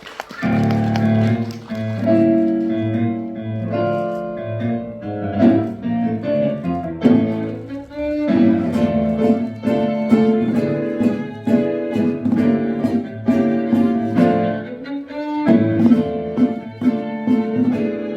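Live musical-theatre band music that starts abruptly, with bowed strings such as violin and cello over plucked and struck notes in a steady rhythm.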